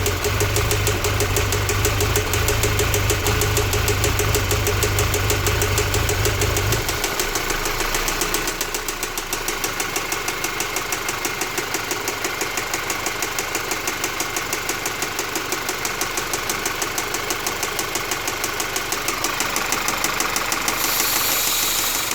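2015 Audi A4's 2.0 TFSI four-cylinder (CPM) engine running with a steady, rhythmic knocking. A low hum under it cuts off about seven seconds in.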